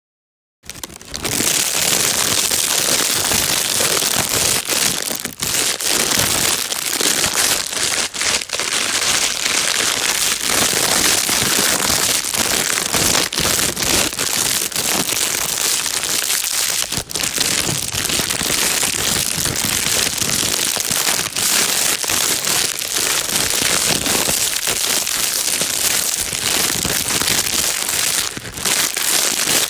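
Plastic bag being crinkled and crumpled continuously, a dense, steady crackle with brief small dips, starting about half a second in.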